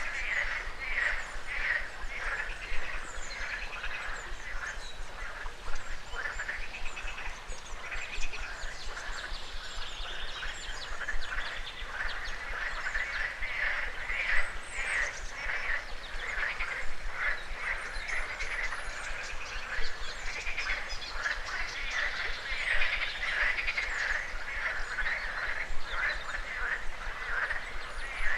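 A chorus of frogs croaking, many rapid pulsed calls overlapping without a break, with a few faint higher bird calls above them.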